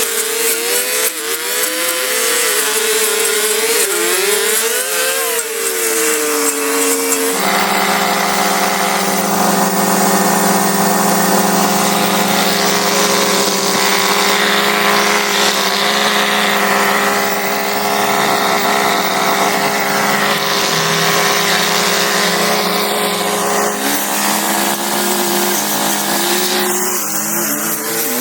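Small engine running loud. Its pitch rises and falls for the first several seconds, then it switches abruptly to a steady pitch and holds there.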